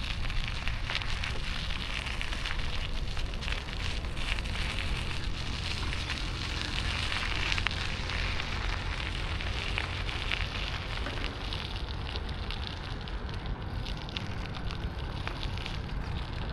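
Street noise heard from a moving bicycle: a steady low rumble with dense crackling throughout.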